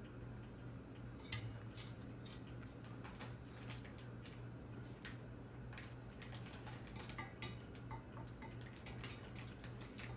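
Faint, scattered light clicks and clinks, irregular and a few each second, over a steady low hum.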